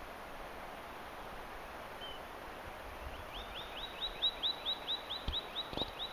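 A bird calling a fast, even run of short down-slurred chirps, about four or five a second, starting about three seconds in, over a steady outdoor hiss.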